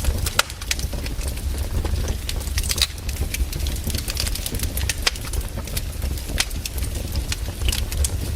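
Wood fire burning, with a steady low rumble under irregular sharp crackles and pops.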